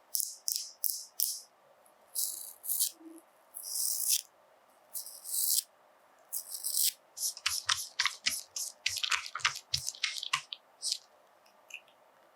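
Makeup tools working on a watermelon's rind: a series of short, high, hissy strokes, then a quick run of light taps and clicks from about seven seconds in.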